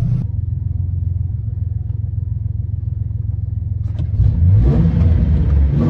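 Vehicle engine running low and steady, then about four seconds in a click and the engine revs up louder as the vehicle accelerates.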